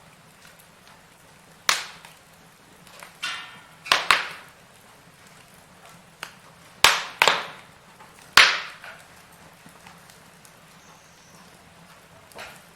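Firewood burning with irregular sharp crackles and pops, the loudest a cluster around the middle, one with a short fizzing hiss just before it.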